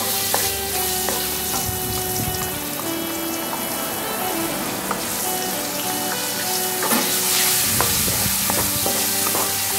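Petai beans frying in hot oil in a wok: a steady sizzle, with a wooden spatula stirring them and clicking against the pan now and then.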